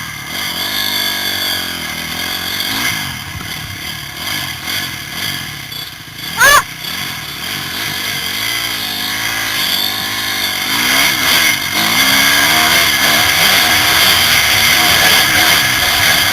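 Motocross motorcycle engines revving up and down in uneven blips, with one loud, short rising high sound about six and a half seconds in; the engines grow louder from about twelve seconds in.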